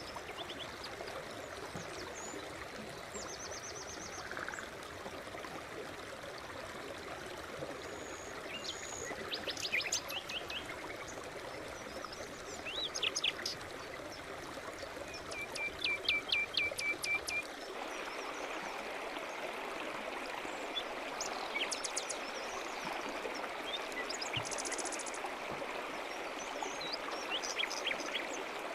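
A brook running steadily, with birds singing over it: scattered chirps and short trills, including a run of quick repeated notes around the middle. About two-thirds of the way in, the water sound changes abruptly and loses its low rumble.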